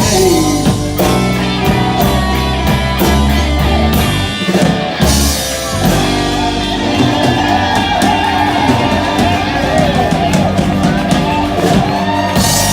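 Live band playing a slow blues: electric guitar lead with bending notes over bass and drums.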